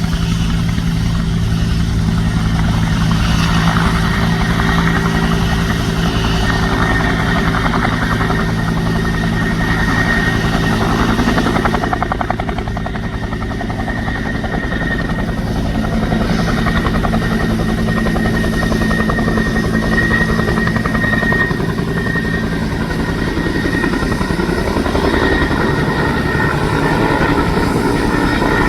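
Bell 212 helicopter running steadily, its twin-turboshaft engines giving a steady high whine over the low beat of the rotor, with a slight dip in loudness about halfway through.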